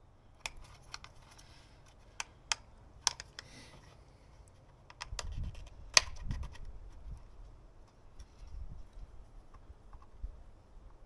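Scattered sharp clicks and knocks from handling a cartridge-style oil filter and its housing cap as they are fitted together, with a few dull thumps partway through and one loud click about six seconds in.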